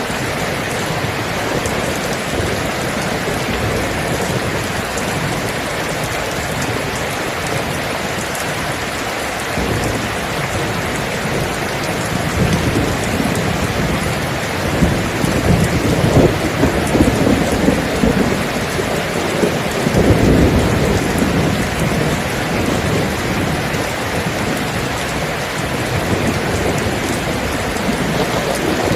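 Steady heavy rain with thunder: a low rolling rumble swells in about a third of the way through, peaks twice, and fades back into the rain.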